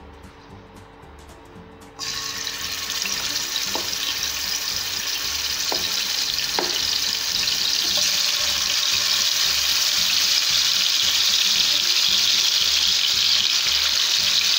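Marinated chicken pieces sizzling in hot oil in a kadai: the sizzle starts suddenly about two seconds in and grows slightly louder, with a few light clicks over it as more pieces go in.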